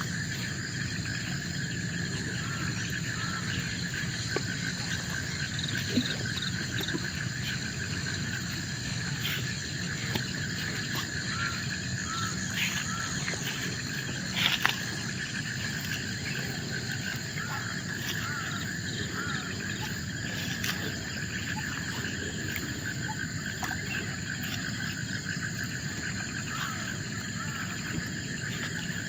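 Forest insects trilling steadily at several pitches at once, one with a fast pulsing chirp, over a low steady hum of background noise. Scattered brief clicks and calls break in, the sharpest about halfway through.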